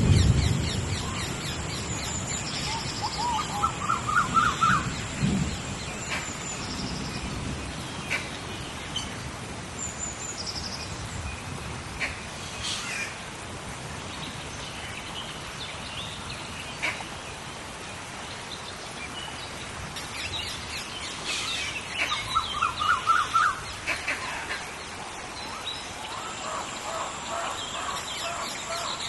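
Rainforest rainstorm ambience: a steady hiss of rain with a thunder rumble dying away in the first second. Birds call over it, with a quick run of rising notes about three seconds in and again a little past twenty seconds, and a thin steady high tone sounds near the start and again near the end.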